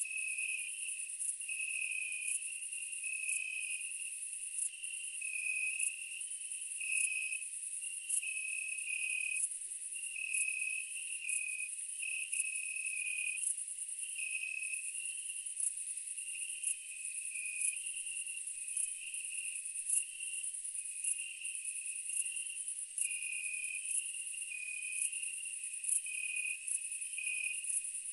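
Chorus of insects chirping: a steady high-pitched drone with a rhythm of repeating lower chirps layered over it.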